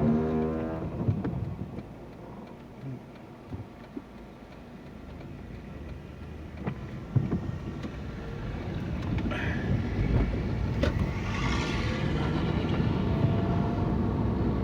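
Car driving on wet roads, heard from inside the cabin: steady engine and tyre rumble that eases off for a few seconds, then builds again, with a louder swell of road hiss about ten to twelve seconds in.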